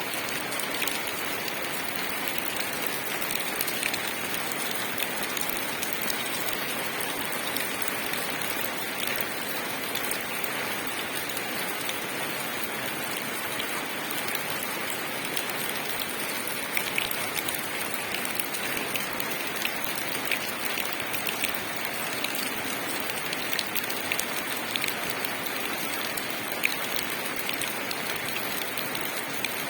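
Steady rain falling onto leaves, an even hiss dotted with many small sharp drop ticks.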